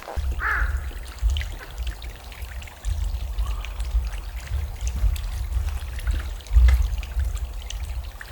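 Wind buffeting the microphone in uneven gusts, with scattered light ticks and one short bird call about half a second in.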